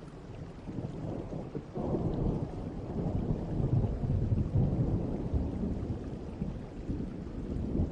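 Distant thunder rumbling over steady rain. A low rumble builds about two seconds in, is loudest around the middle and slowly fades.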